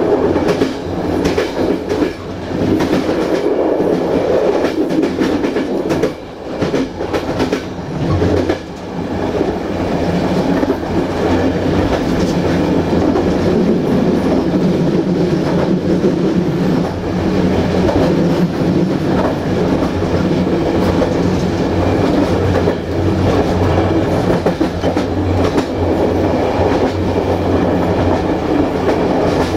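Passenger train running along the track, heard from aboard at its rear: a steady rumble of wheels on rails with the clickety-clack of rail joints.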